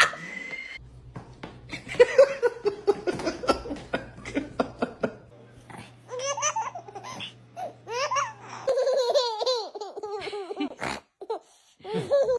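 Laughter in rapid, repeated bursts that rise and fall in pitch, broken by a few sudden cuts.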